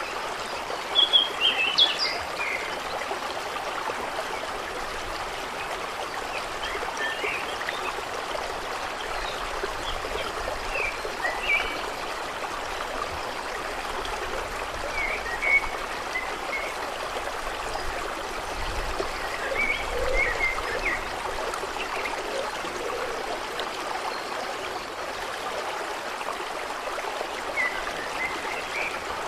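Water running and trickling steadily, with small birds chirping now and then; a few of the chirps a second or two in are the loudest.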